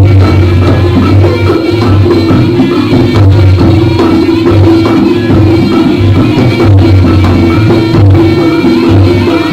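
Live jaranan ensemble music: a loud, busy piece with drums beating a steady, driving rhythm under sustained pitched instruments.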